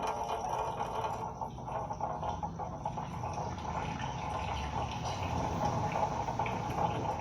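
Water running steadily and splashing, as from a tap into a cupped hand used as a birdbath.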